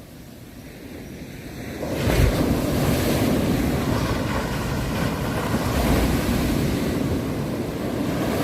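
Ocean waves: a lull, then about two seconds in a wave breaks and the surf rushes in steadily, easing off near the end.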